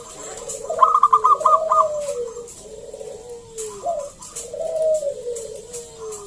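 Zebra dove (perkutut) singing its cooing song: repeated, gliding coo phrases, with a quick run of short, higher staccato notes about a second in.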